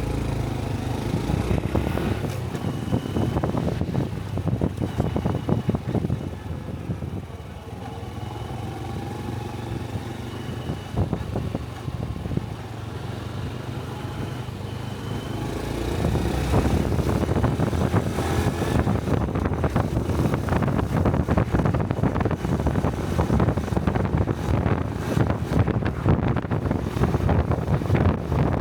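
Honda Cub 125 cc single-cylinder motorcycle engine running while riding, with wind buffeting the helmet-mounted microphone. It eases off for a few seconds midway, then picks up and runs louder again with stronger wind noise.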